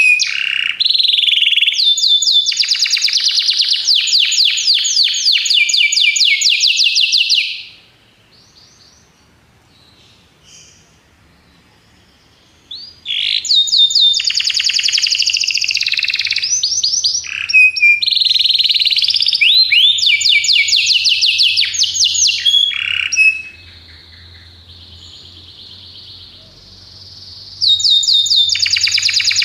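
Domestic canary singing long phrases of rapid, high trills. The song stops for a few seconds about a quarter of the way in, runs on again, and near the end drops to a softer, steady whistled tour before the loud trilling resumes.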